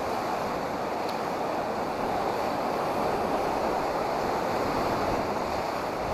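Rushing river water: a steady whitewater roar with no breaks.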